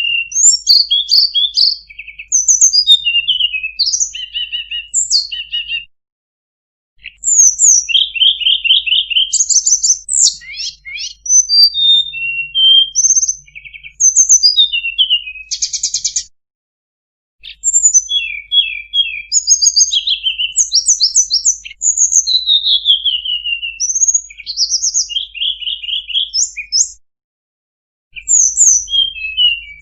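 Tledekan gunung songbird singing a fast, varied song of high-pitched chirps, trills and sweeping notes, in three long runs broken by two short pauses.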